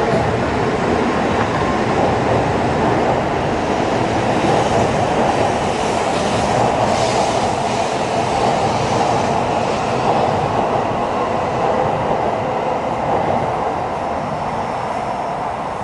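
Shinkansen high-speed train running on the main line: a steady, continuous rush of wheel, motor and air noise, with a brighter hiss through the middle that eases off near the end.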